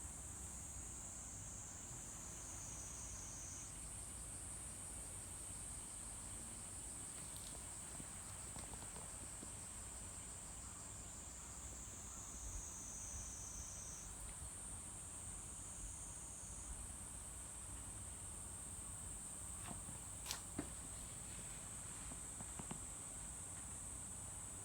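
Insects calling in a steady, high-pitched continuous chorus, which briefly dips lower in pitch twice. A couple of faint clicks come about twenty seconds in.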